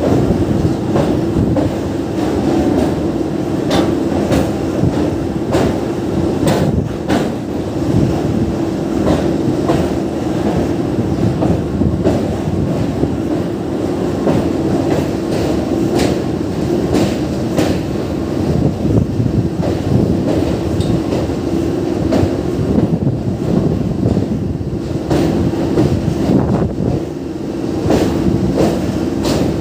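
MEMU electric train running across a steel truss rail bridge: a steady, loud rumble of wheels on the rails, with frequent clicks from the rail joints.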